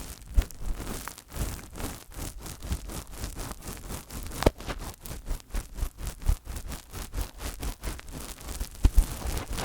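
Fingers rubbing, brushing and tapping directly on a microphone: a quick, continuous run of scratchy strokes with deep low thumps where the hand presses on it, a few thumps sharper than the rest.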